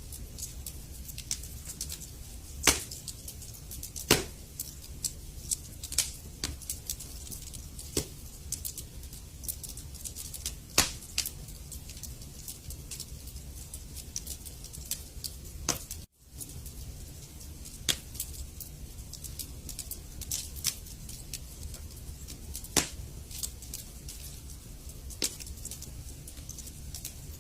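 Wood fire crackling in a fireplace: irregular sharp pops and snaps over a steady low rumble, with a very brief drop-out a little past halfway.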